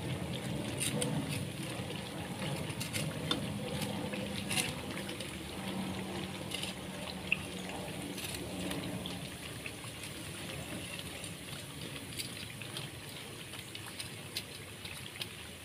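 Corn fritters sizzling in hot oil in a frying pan, with scattered clicks of tongs against the pan as the fritters are turned over.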